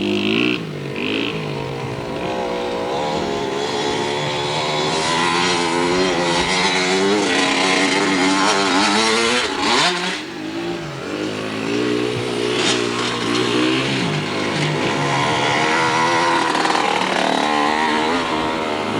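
Dirt bike engine running and revving, its pitch rising and falling as the rider works the throttle, with a sharp rev up and drop about ten seconds in.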